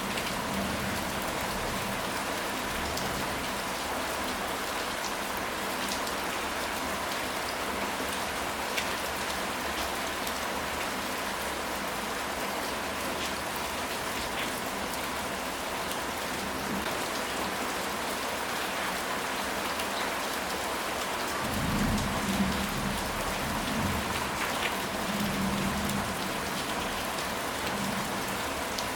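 Steady rain falling, an even hiss of drops on a surface. About three-quarters of the way through, a low rumble of thunder swells and fades.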